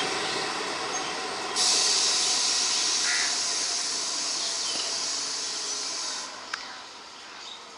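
A passing train's rumble dying away. About a second and a half in, a steady high hiss starts suddenly and holds for some four seconds before cutting off, followed by a single sharp click, with crows cawing.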